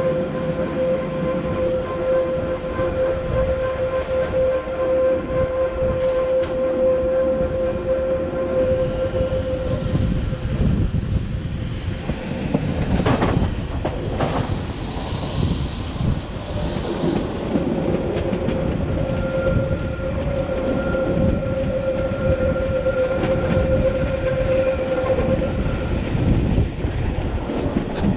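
Metre-gauge Matterhorn Gotthard Bahn train, led by an HGe 4/4 electric locomotive, running along the track with steady wheel-on-rail rumble and clatter. A steady whine fades out about a third of the way in and returns a few seconds later. Two sharp knocks come near the middle.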